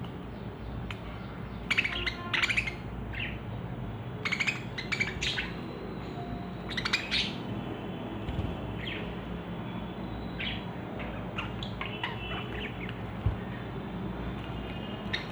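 Budgerigars chirping and squawking in short bursts, busiest in the first half, over a steady low background hum.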